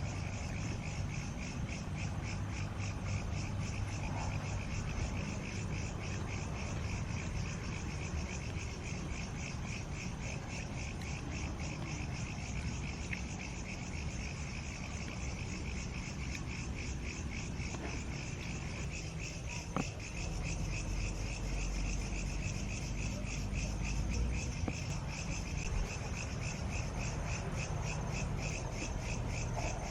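A steady night chorus of chirping insects and frogs, a rapid, evenly pulsed high chirping that keeps going without a break, over a low rumble.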